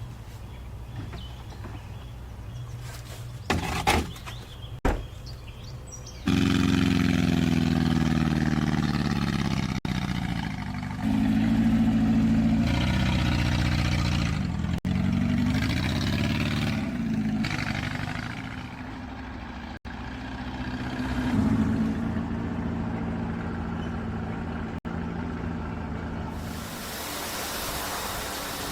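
A car engine starts suddenly about six seconds in and runs, its pitch rising and falling as it is revved, for about twenty seconds. Two knocks come before it starts, and a hiss takes over near the end.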